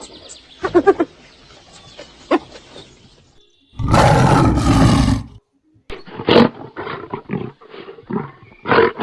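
An animal roaring: a loud, rough roar of about a second and a half starts about four seconds in, after a short pitched call near the start. After a brief gap, a quick run of short, rough calls follows.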